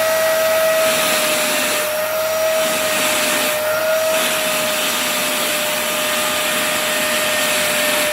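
Vacuum cleaner running steadily, a motor whine over rushing air, as it is used on a Siberian husky's coat; the rush of air dips briefly twice, about two and three and a half seconds in.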